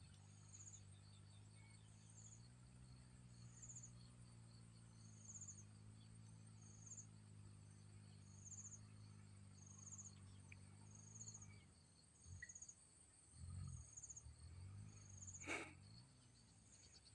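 Faint insects calling: a short chirp repeating a little more than once a second over a steady high buzz. A low hum underneath stops about twelve seconds in, and one sharp click comes near the end.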